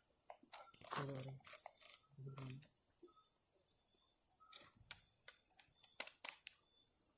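Steady, high-pitched chorus of night insects in tropical rainforest, with two brief low voice sounds in the first few seconds and scattered small clicks and rustles.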